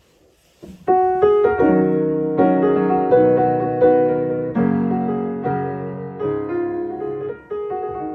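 Piano being played: after a brief near-quiet moment, chords and melody notes start about a second in and continue as a flowing passage.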